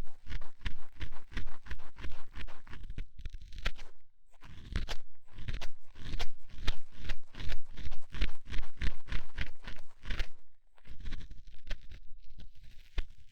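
Ear pick scraping in an ear during no-talking ear-cleaning ASMR, in quick, close strokes about four a second, with short pauses about four and ten and a half seconds in.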